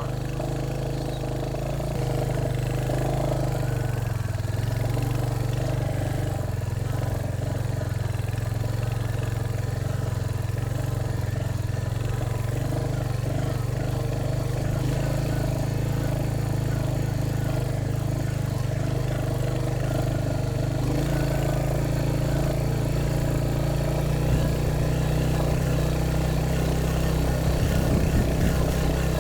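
Motorcycle engine running steadily while riding, with a shift in its note about two-thirds of the way through.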